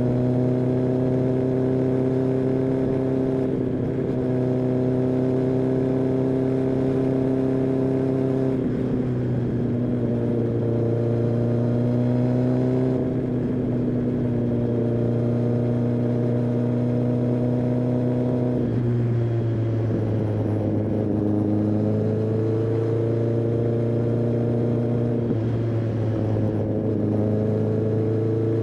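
Kawasaki ZX-10R's inline-four engine and exhaust while riding, holding fairly steady revs. The pitch steps down about a third of the way in and again about two-thirds in, then climbs back gradually as the revs change.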